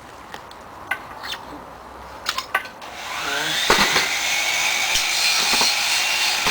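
A few light clicks and taps, then about three seconds in a motor starts up: its whine rises quickly in pitch and holds steady over a rushing hiss.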